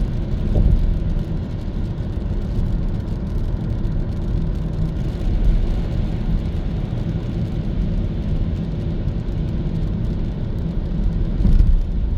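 Hyundai Kona EV driving, its tyres and road giving a steady low rumble with no engine note; a brief louder swell of rumble near the end.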